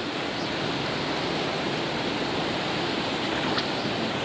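A flowing river running steadily, an even rush of water with a couple of faint ticks about three and a half seconds in.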